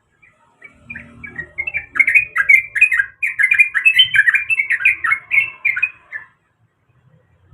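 Yellow-vented bulbul (trucuk) singing a fast, bubbly chattering phrase. The notes crowd together and grow loud about two seconds in, then stop abruptly about six seconds in.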